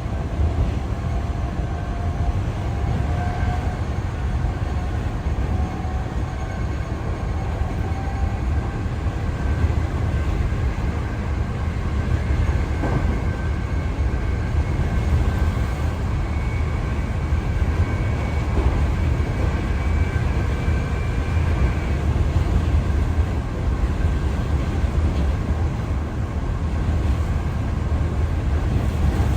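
Hankyu Kyoto Line commuter train running at speed between stations, heard from inside the carriage: a steady low rumble of wheels on rail, with a faint high whine over it.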